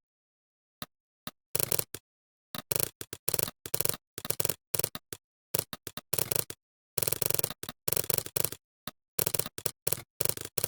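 Computer keyboard typing: bursts of rapid keystrokes broken by short pauses of complete silence.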